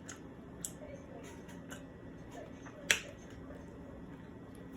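Close-up eating sounds: faint mouth clicks and chewing, with one sharp click about three seconds in.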